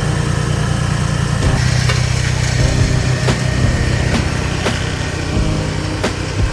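A motor running steadily with a low, rapid pulsing hum, joined about one and a half seconds in by scattered sharp clicks.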